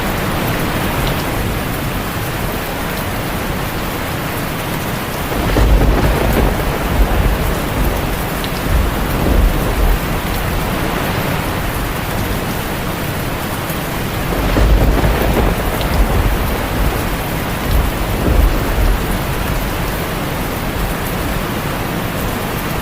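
Heavy rain drumming steadily on a tin roof, with two rolls of thunder: one rumbling in about five seconds in and another about fourteen seconds in, each lasting several seconds.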